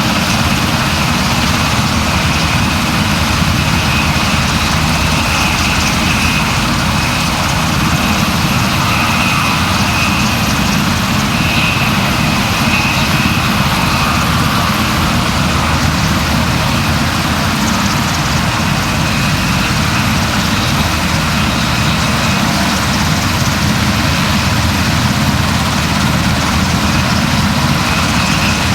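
Steady, loud engine drone, unchanging throughout.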